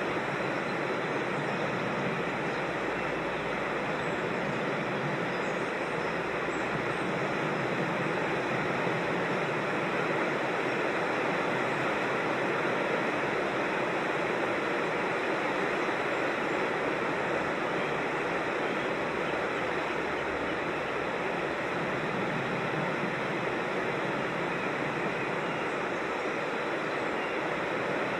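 Steady rush of flowing creek water tumbling over rocks, an even, unbroken sound.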